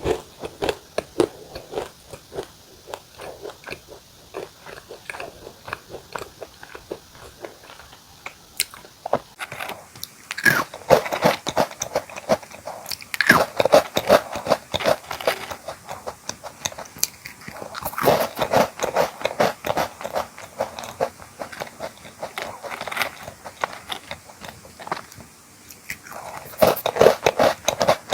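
Close-miked crunching and chewing of crisp cookies, bite after bite, with louder bouts of crunching every few seconds.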